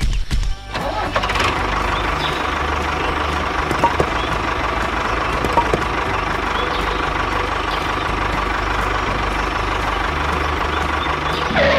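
Small motor of a DIY mini tractor running steadily, starting under a second in and cutting off near the end.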